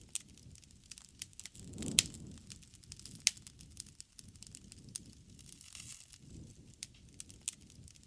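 Campfire crackling: irregular sharp pops and snaps of burning wood over a low rushing of flames that swells and fades every few seconds, with a couple of louder pops about two and three seconds in.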